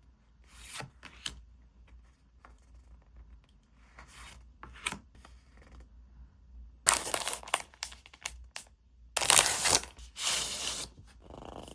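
Packaging being torn open by hand, with soft rustling and crinkling, then two long, loud tearing stretches in the second half.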